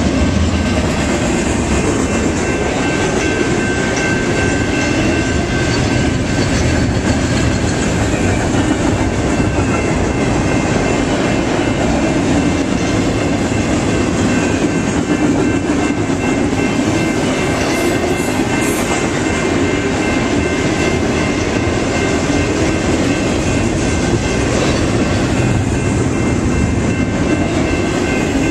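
Freight train cars rolling past steadily, with wheels rumbling and clickety-clacking over the rails and a few faint, steady high tones above.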